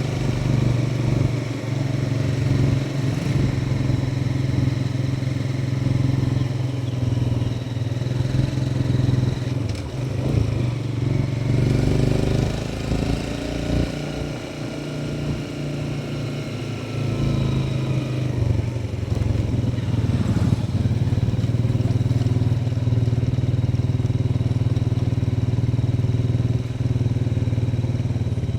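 Motorcycle engine running under way. The engine note wavers and shifts in pitch between about ten and eighteen seconds in, then settles back to a steady drone.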